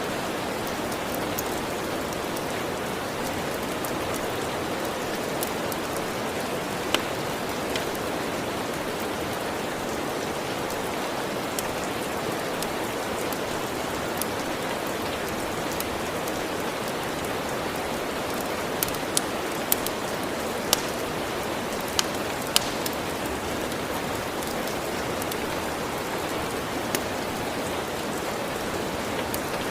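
Steady rain, an even hiss without a break, with a few sharp clicks on top, several of them bunched together about two-thirds of the way through.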